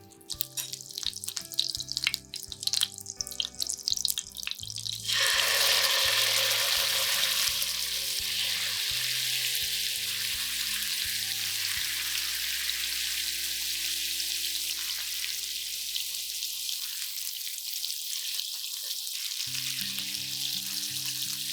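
Food frying in a hot oiled pan: sharp crackling spits for the first few seconds, then about five seconds in a sudden loud, steady sizzle that carries on.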